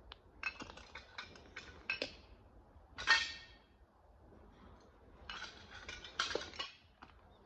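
Clinking and clattering of small hard objects, metal or glass, in two bursts, with one louder ringing clink about three seconds in.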